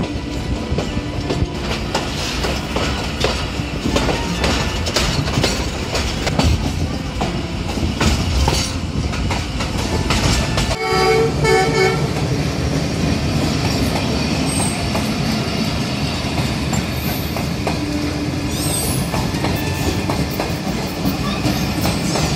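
Passenger train running on the rails, wheels clacking over rail joints with steady running noise. Just before halfway a train horn sounds briefly. In the second half, coaches of another train pass close alongside with a steady low rumble.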